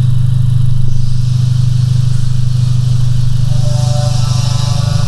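Freshly built Honda L15B7 1.5-litre turbocharged four-cylinder engine idling steadily.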